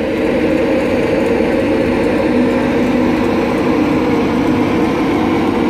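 Class 91 electric locomotive pulling away with an InterCity 225 train, its traction motors and blowers giving a loud, steady drone of several tones over a rumble, with a further tone joining a little over two seconds in.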